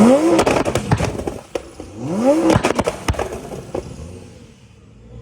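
Audi R8 with an aftermarket exhaust being revved twice from idle, each blip followed by a string of sharp exhaust crackles and pops; the sound fades away over the last second or so.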